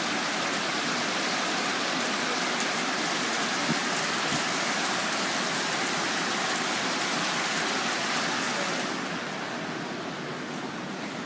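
Rain falling steadily in an even hiss; about nine seconds in it turns softer and duller.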